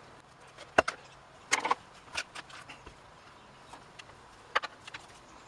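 Scattered clicks and knocks of a screwdriver and the chainsaw's plastic housing parts being handled during disassembly: a sharp knock about a second in, a short rattling cluster just after, and another sharp click near the end.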